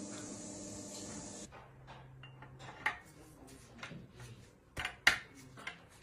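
A steady hum cuts off about a second and a half in, followed by a handful of sharp metallic clinks and taps from tools or parts being handled.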